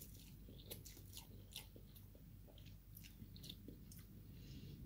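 Faint mouth sounds of a person eating a mouthful of instant fried noodles (mi goreng) taken from chopsticks, chewing with soft wet clicks and smacks scattered throughout.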